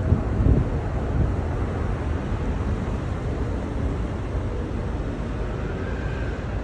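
Jet airliner's engine rumble, slowly fading, with wind buffeting the microphone.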